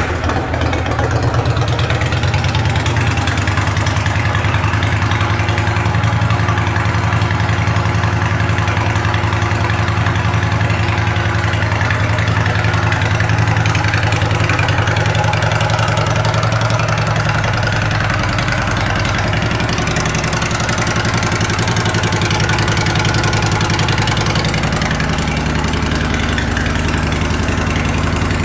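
Honda Fury's 1312 cc V-twin engine idling steadily through an aftermarket exhaust, just after being started.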